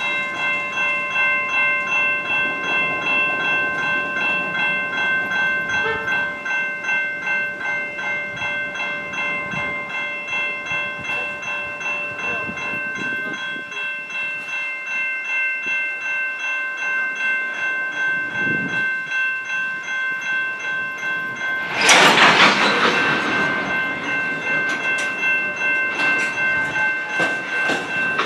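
Freight train's covered hopper cars rolling through a level crossing with a low rumble and wheel clatter, while the crossing's warning bell rings over and over at an even pace. About 22 seconds in, a loud harsh burst lasts about two seconds.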